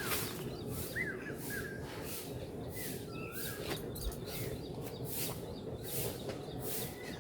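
Small birds chirping in short calls that rise and fall, heard several times. Underneath are repeated short scratchy or rustling strokes, about two a second, and a steady low hum.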